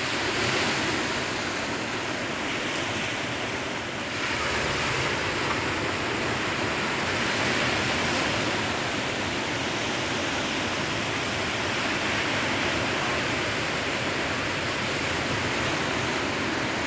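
Sea waves washing on a shore: a steady rushing surf that swells gently every few seconds.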